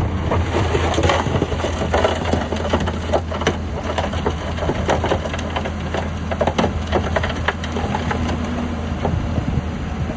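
Heavy diesel earthmoving machine running steadily under a dense, irregular crackle and crunch of stone and soil being pushed and crushed.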